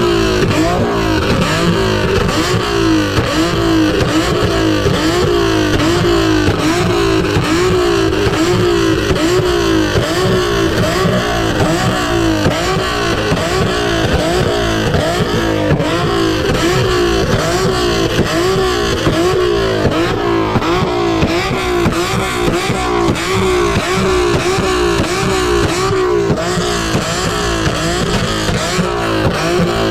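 Car engine revved hard over and over, each pull rising quickly in pitch, about one rev a second, loud throughout.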